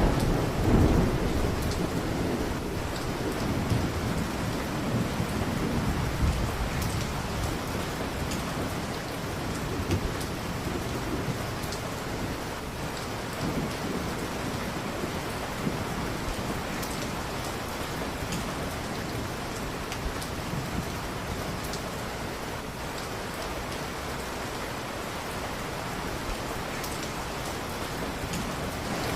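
Steady heavy rain, with a low rolling rumble of thunder that swells about a second in and dies away over the next few seconds.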